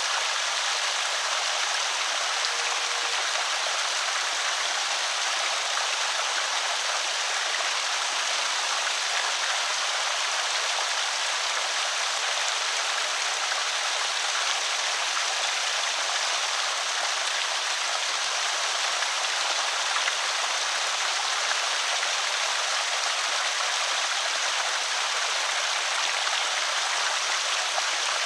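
Water pouring steadily over a small creek spillway, a constant splashing rush.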